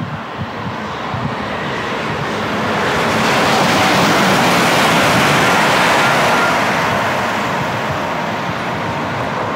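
Passenger train on the Paddington–Oxford line passing through the station at speed. A rushing noise of wheels on rail and moving air builds, is loudest for a few seconds in the middle, then eases off.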